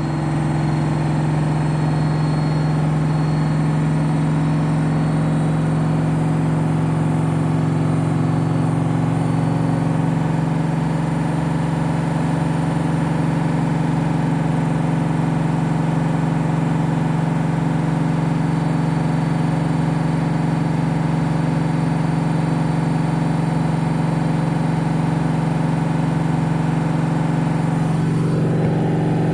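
Candy washing machine on its high-speed final spin, set to 1600 rpm: the drum and motor run with a steady, loud hum and whine. Near the end some of the tones glide up and down as the speed shifts.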